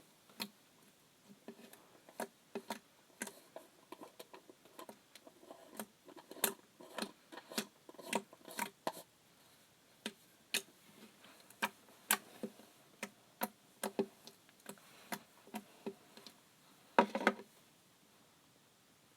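Slime being pressed and squished by hand, giving irregular sharp clicks and pops, with a short denser cluster of crackling near the end.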